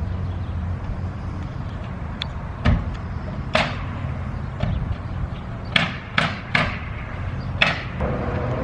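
About six sharp hammer knocks at uneven intervals, plausibly striking the mower's bent wheel to straighten it, some with a short ringing tail. A steady low hum runs underneath.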